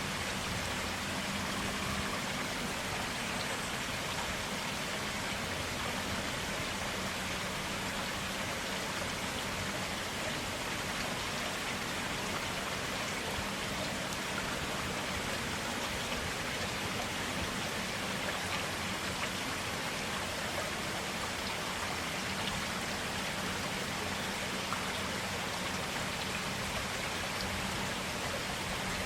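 A forest stream of clear water running steadily, an even, unbroken wash of flowing water.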